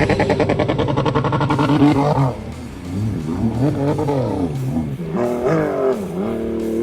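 Sea-Doo Spark jet ski engine holding steady high revs, then revving up and down in repeated swoops.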